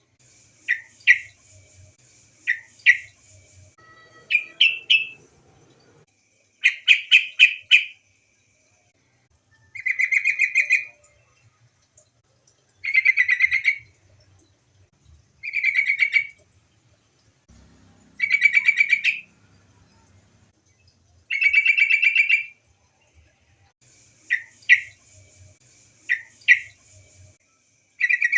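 Female yellow-vented bulbul calling to males: short, bubbly chattering phrases of about a second, repeated every two to three seconds. Quick paired chirps come near the start and again near the end.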